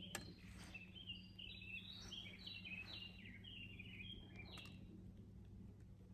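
A small songbird singing a quick phrase of short chirping notes that step up and down for about four seconds, faint over a steady low hum, with a sharp click just at the start.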